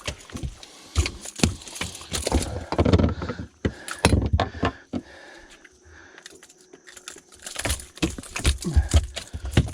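Irregular clicks, knocks and rattles of fishing tackle and handling on a boat, with low thumps, easing off for a few seconds in the middle.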